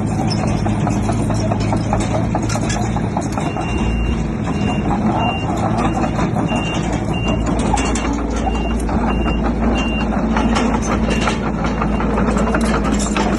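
Heavy diesel construction machinery running steadily. A reversing alarm sounds a string of short, evenly spaced beeps from a few seconds in until about ten seconds in, over scattered clanks and rattles.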